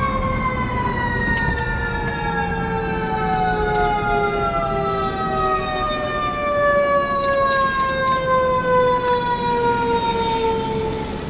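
Fire engine siren winding down, one long tone falling slowly and steadily in pitch, with low engine rumble beneath.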